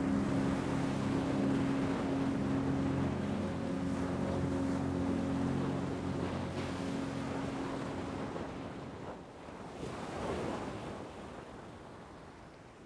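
Ocean waves washing in, one wave swelling up about ten seconds in, then easing off. Underneath, a steady low hum made of several tones fades out about eight seconds in.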